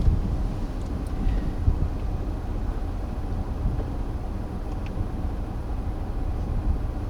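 Steady low rumble of a vehicle heard from inside its cabin, with no distinct events.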